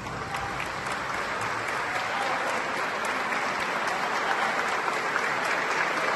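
Audience applauding, a dense steady clapping that grows slightly louder.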